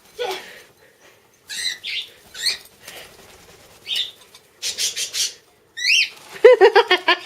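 Cockatiel making short, high-pitched whiny calls several times over: a begging call it uses to get at the owner's cereal. A person laughs near the end.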